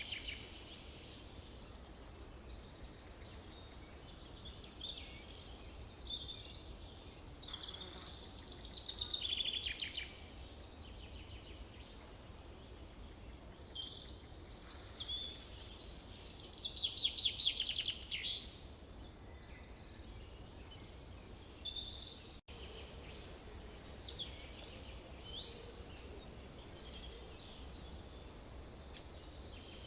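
Forest ambience: several birds singing and calling in short chirps, whistles and trills over a steady low rumble, with two louder rapid trills about nine and seventeen seconds in.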